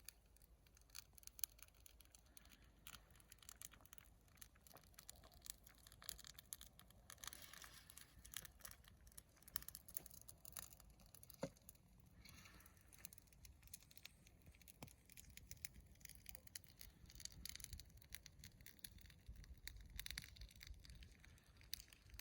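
Faint crackling of a fire: scattered small pops and snaps, with a few sharper cracks.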